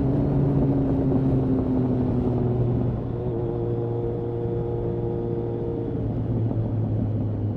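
Kawasaki ZRX1200R inline-four engine on Yoshimura TMR-MJN carburetors, running at low revs under way. Its note eases down slightly and gets a little quieter about three seconds in.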